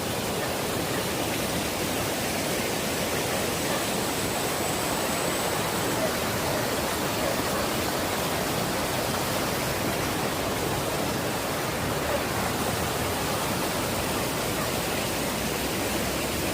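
River water rushing in a steady, unbroken roar of noise.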